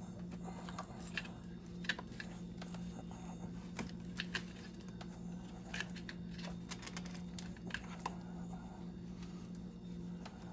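Scattered light clicks and taps of small parts and wiring being handled in an engine bay, over a steady low hum.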